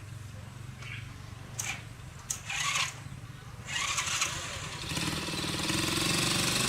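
Small motorbike engine running steadily, with a few short hissing bursts in the middle, then revved up and getting louder about five seconds in: the repaired flooded bike running again.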